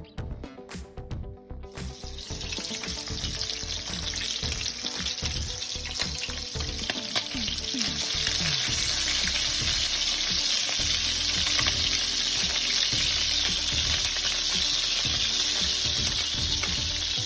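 Ham frying in a pan: a steady sizzle that starts about two seconds in and grows louder over the next few seconds. Music is heard briefly at the start.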